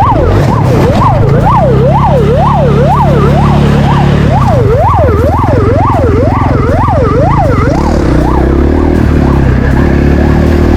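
Police siren yelping, its pitch sweeping rapidly up and down about twice a second, fading out about eight seconds in. Underneath it a vehicle engine runs loudly.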